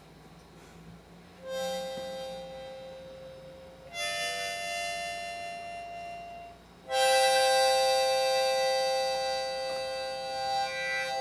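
Harmonica playing three long held chords, one after another, starting about a second and a half in; the last chord is the longest and loudest.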